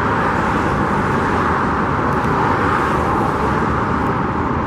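Steady road traffic noise, an even rush of tyres and engines with a faint constant hum under it.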